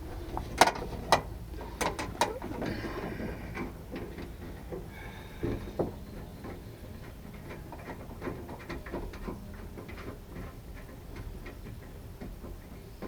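Hand tools and metal door-handle parts being handled at a truck door: a few sharp metallic clicks and clanks in the first couple of seconds, a short rattle, then a long run of light ticking and clicking.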